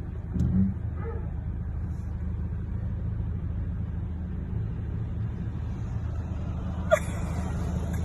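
Steady low rumble of a car's engine and road noise heard from inside the cabin, with a brief louder sound about half a second in and a sharp click about seven seconds in.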